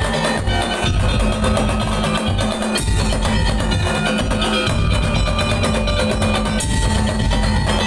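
Madurese daul ensemble playing: a fast, dense drum and percussion rhythm with bass drum hits, under steady melodic lines.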